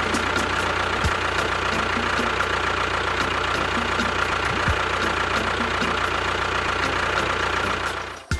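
Small engine running steadily at idle with a regular knock. The sound breaks off for a moment near the end.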